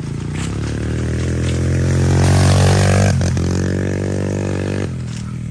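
Small pit bike engine running hard as the bike rides by, getting louder toward the middle, with the pitch shifting about three seconds in. The engine sound drops off abruptly near the end.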